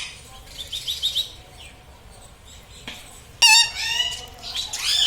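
Indian ringneck parakeet calling: a quick run of about five short high chirps about a second in, then a loud squawk about three and a half seconds in and a short rising call near the end.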